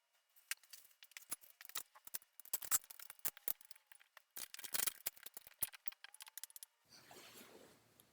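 Irregular sharp clicks and rattles of a clamp being set and tightened on a glued wooden joint of a recliner's back frame, ending in a faint soft hiss near the end.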